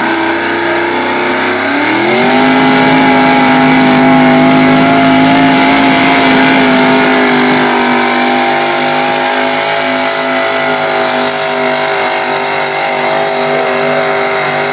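Super stock 4x4 pulling truck's engine held at high revs while it drags the sled down the track. The pitch climbs about two seconds in, then holds steady with a slight waver.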